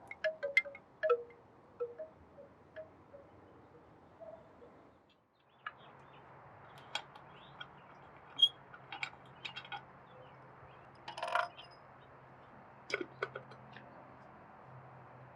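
Wooden wind chime knocking irregularly, its hollow wooden tones clacking in the breeze. After a brief drop out about five seconds in, only sparser light clicks and knocks are heard, with a short rustle later on.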